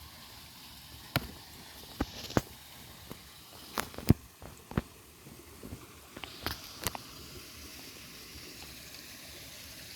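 Koi fish splashing and popping at the surface of a pond: short, sharp watery clicks at irregular moments, clustered in the first seven seconds.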